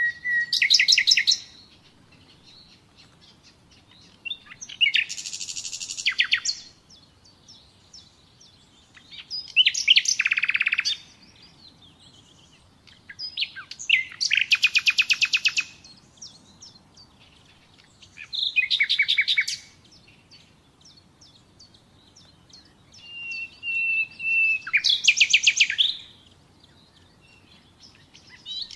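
Common nightingale singing in separate phrases, each a second or two of rapid repeated notes and trills, coming about every four to five seconds with short silent gaps between. One phrase near the end opens with a held whistle before breaking into fast notes.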